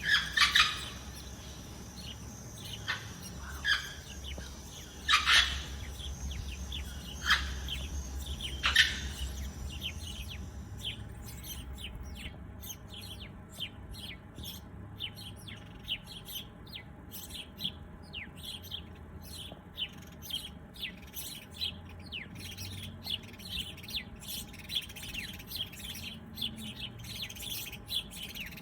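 Birds chirping and calling: a handful of loud, separate calls during the first ten seconds over a low rumble, then a dense, rapid run of short chirps.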